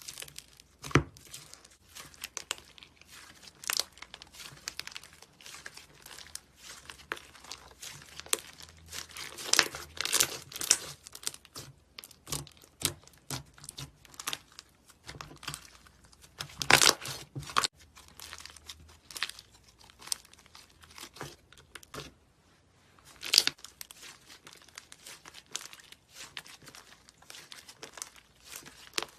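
Slime being worked by hand: irregular sticky crackles, clicks and pops, with louder clusters of crackling about ten seconds and seventeen seconds in.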